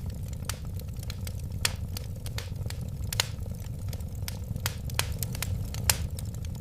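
Wood fire crackling: irregular sharp pops and snaps, several of them louder, over a steady low rumble of the flames.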